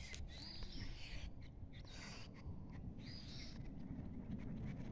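A few faint bird calls over a low rumble of wind or handling noise on the phone microphone.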